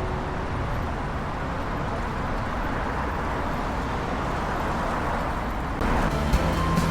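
Steady rush of wind and traffic noise while riding a bicycle on a city road. Near the end it gets louder, with a steady low hum and a few sharp clicks.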